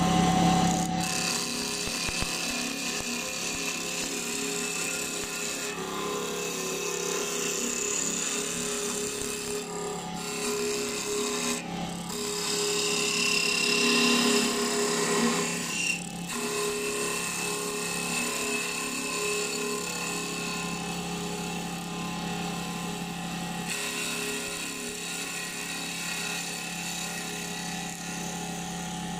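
Mini benchtop CNC wood lathe running, its cutting tool scraping shavings off a spinning wood blank: a steady motor hum under a rasping hiss, with a few abrupt breaks and a louder stretch about halfway through.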